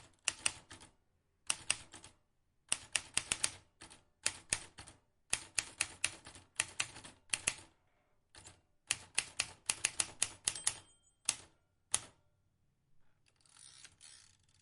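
Vintage manual typewriter keys striking in quick runs of clacks, with short pauses between the runs. The typing stops about twelve seconds in, and a softer, longer noise follows near the end.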